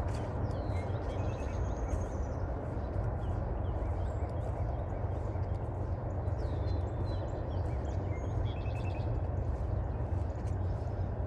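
Footsteps on a forest trail under a steady low rumble, with a songbird singing a short phrase about a second in and twice more past the middle.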